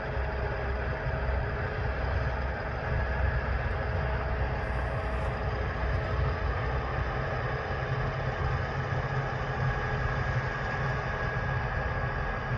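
Heavy harvest machinery working a wheat field: a steady deep engine rumble with constant mechanical whines over it.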